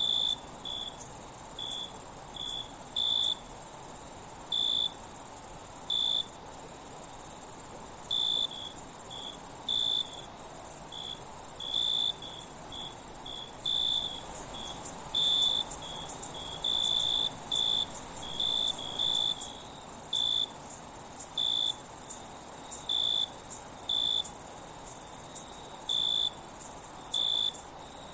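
Night insect chorus: a steady, very high-pitched trill, with a cricket chirping over it in short, irregular chirps about once or twice a second. The sound drops out briefly a few times.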